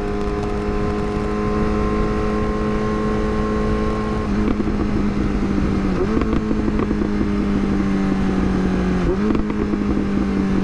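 Yamaha R6 inline-four motorcycle engine running at steady revs while riding, the pitch slowly sagging, with two brief dips and quick steps up in revs in the second half, over wind rush on the microphone.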